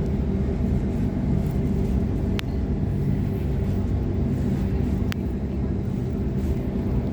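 Steady low rumble of a Sydney Trains Waratah (A-set) electric multiple unit running along the line. Two sharp clicks cut through it, one about two and a half seconds in and another near five seconds.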